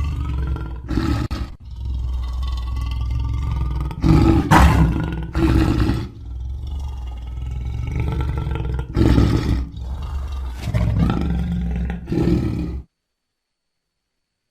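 Lion roaring and growling in a series of deep calls, loudest about four, nine and twelve seconds in; the sound stops abruptly near the end.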